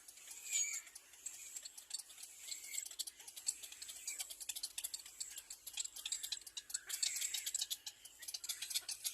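Baby birds calling in a rapid run of short, high-pitched ticking chirps, many each second, with a few longer higher chirps mixed in.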